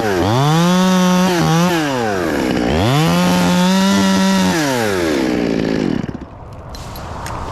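Chainsaw engine revved up to full throttle twice, held there a second or two each time, then falling away near the end.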